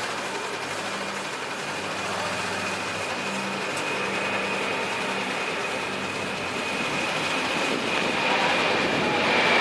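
Jet engines of a Boeing 747-400 freighter running, a steady rush of noise with a thin high whine, growing louder toward the end.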